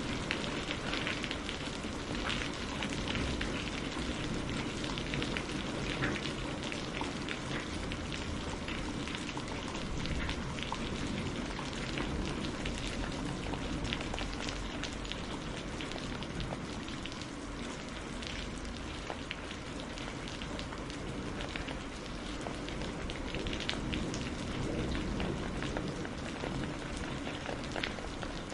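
Steady, heavy rain falling, with many separate drop hits ticking through a continuous wash of noise.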